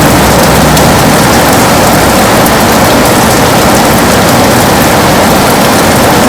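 Heavy rain falling steadily on a window: an even, unbroken hiss with a low rumble beneath it and faint scattered drop ticks.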